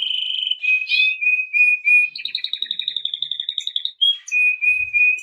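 Domestic canary singing: a fast, steady rolling trill, then a run of short repeated notes, then a buzzier trill that slides slightly down in pitch, and repeated notes again near the end.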